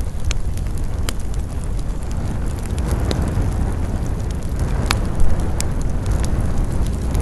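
Wood campfire crackling with scattered sharp pops, over wind rushing through pine trees and rumbling on the microphone. The wind swells around three seconds in, and the loudest pop comes about five seconds in.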